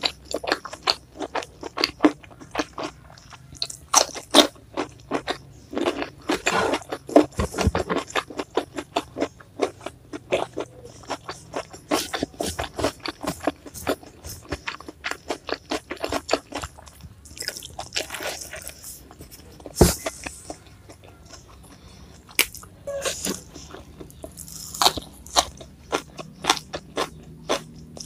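A person eating close to the microphone: crisp crunching bites and chewing of raw vegetables, in quick runs with a sparser stretch about two-thirds of the way through.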